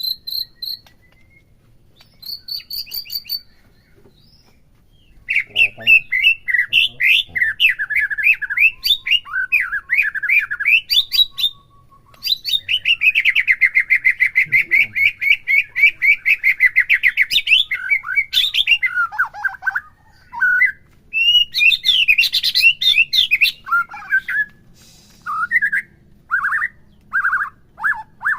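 White-rumped shama (murai batu) singing a varied song of quick whistled phrases. About halfway through there is a long rapid trill of about five seconds, and short separate notes follow near the end.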